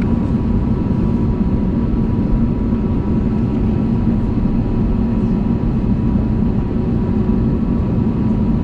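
Steady cabin noise inside an Airbus A320neo airliner: a constant engine drone with a low hum and a faint, even high whine, with no change in level.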